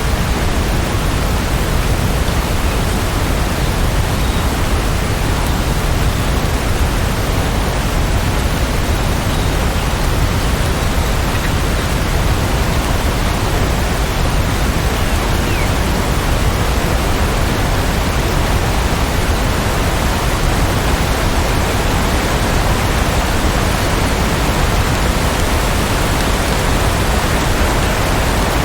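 Steady rain falling: an even, unchanging hiss with no separate drops or thunder standing out.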